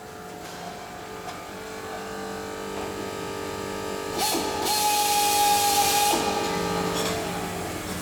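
Workshop hum, then a handheld air tool such as a pneumatic drill running for about two seconds in the middle, a steady whine with a hiss of exhaust air.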